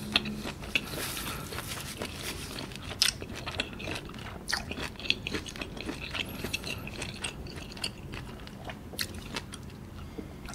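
Close-up chewing of squid, a run of many small irregular wet clicks from the mouth.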